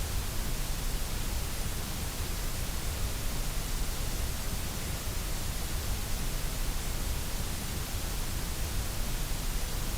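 Steady synthetic white noise: an even, unchanging hiss with a low rumble underneath.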